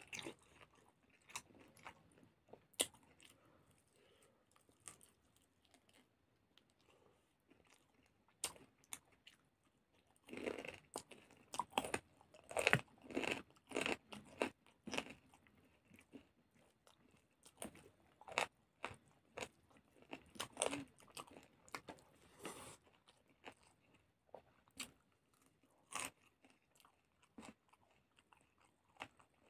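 Close-up mouth sounds of a person chewing a mouthful of chicken and rice: many short wet clicks and smacks, coming thickest in two spells in the middle.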